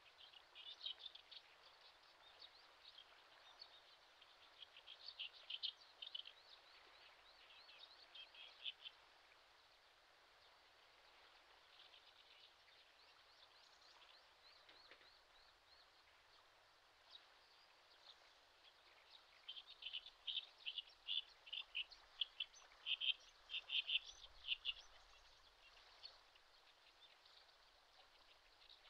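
Faint high-pitched bird chirping in quick series of short notes, coming in bursts, with the longest and loudest run about twenty seconds in, over a quiet outdoor hiss.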